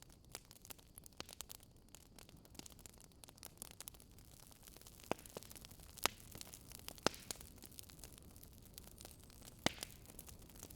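Wood fire crackling in a fireplace: irregular small crackles over a soft steady hiss, with a few louder pops in the second half.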